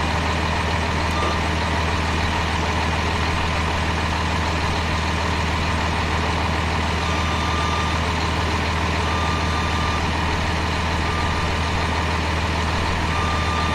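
An engine running steadily at a constant speed, a loud, unchanging low drone.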